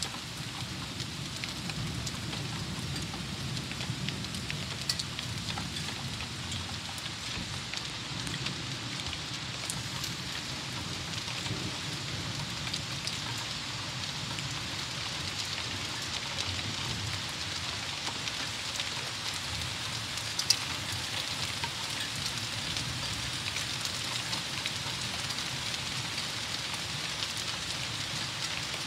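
Steady rain falling during a thunderstorm: an even hiss with scattered sharp drop ticks, and one louder tap about twenty seconds in.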